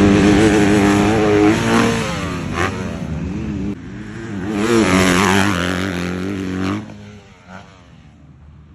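Motorcycle engine revving twice. It is loud from the start and eases off about three and a half seconds in, then climbs to a second peak around five seconds. It falls away near seven seconds to a faint tail.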